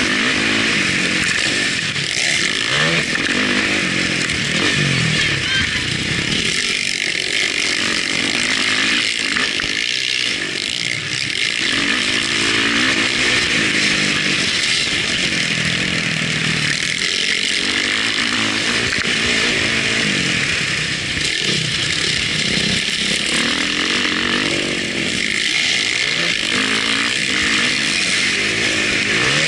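Motocross bike engine at race pace, revving up and dropping back again and again as the rider accelerates and shifts, over a steady rush of wind and exhaust hiss.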